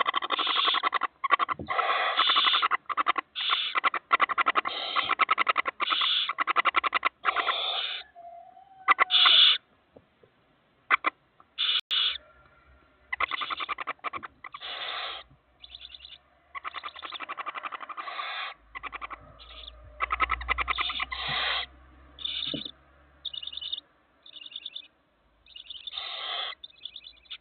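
Barn owl chicks giving rasping, hissing begging calls. The calls come in near-continuous bursts for the first eight seconds, then in shorter, more spaced bursts.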